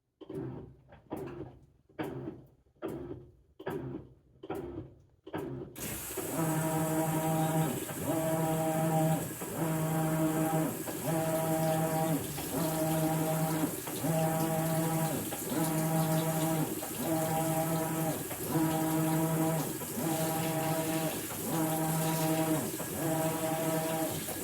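Maytag Bravos XL top-load washing machine on a bedding cycle: seven short quick strokes of the drive, then water rushing in while the motor hums in repeated back-and-forth strokes a little over a second apart.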